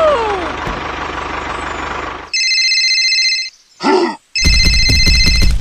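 A small engine running with a steady low pulse for about two seconds, then cut off abruptly. An electronic ringing tone follows, like a phone ring, sounding twice with a short squeaky voice-like call between.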